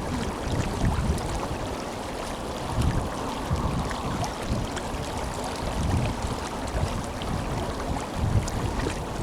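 Tenryū River water flowing strongly, a steady rush with small splashes, with wind buffeting the microphone in uneven low gusts.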